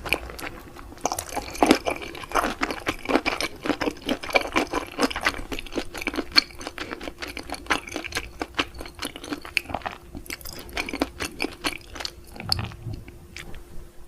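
Close-miked chewing of raw octopus and sea grapes: wet squishes with many quick small pops and crunches, stopping just before the end.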